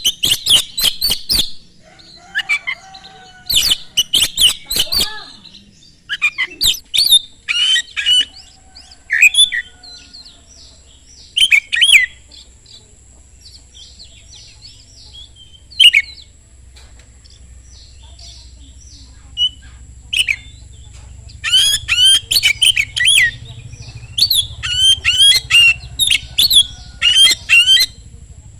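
Oriental magpie-robin (kacer) singing loudly in bursts of rapid, sharp whistled and chattering notes, with a softer twittering stretch in the middle and a long fast run near the end.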